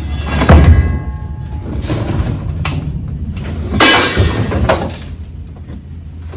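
Clattering and scraping as a heavy rubber bed mat is wrestled against a pickup's steel bed. There is a loud bang with a brief metallic ring about half a second in, and another loud knock near four seconds in.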